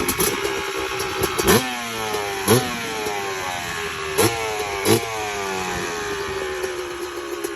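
Yamaha YZ250 single-cylinder two-stroke dirt bike engine idling, then blipped four times. Each blip revs up sharply and falls slowly back toward idle.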